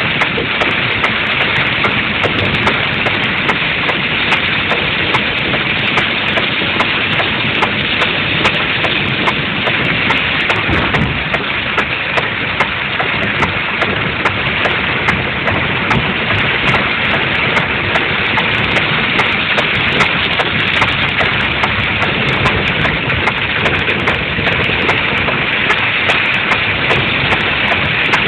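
Steady rain on a moving car, mixed with the car's engine and road noise, a dense unbroken hiss. It is a low-quality mobile phone recording.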